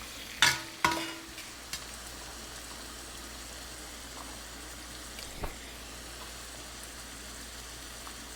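Mushrooms and peppers sizzling steadily in hot oil in a cast iron pan as they are stir-fried. Near the start, two ringing clanks of a utensil against the pan come less than half a second apart, and there is a soft knock about five seconds in.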